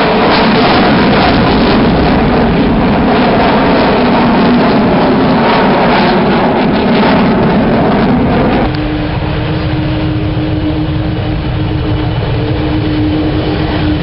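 Loud aircraft engine noise with no speech. A little past halfway it cuts abruptly to a quieter sound with a steady low hum running through it.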